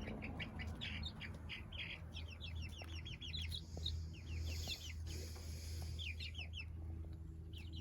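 A flock of young chickens peeping and chirping, many short falling peeps in quick succession, over a steady low hum.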